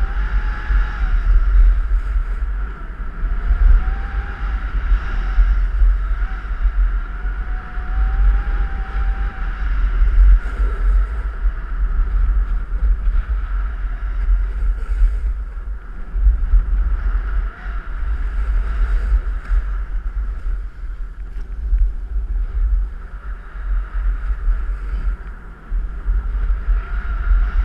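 Wind rumbling on the microphone during a downhill run on a ski slope, over the steady hiss and scrape of edges sliding on snow.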